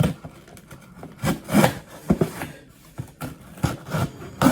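Cardboard shipping box being opened and handled, its flaps and tape scraping and rasping in irregular strokes.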